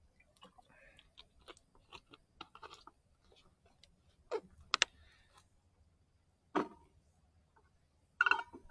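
Scattered small clicks and taps, with a few louder knocks and a sharp double click just before five seconds in.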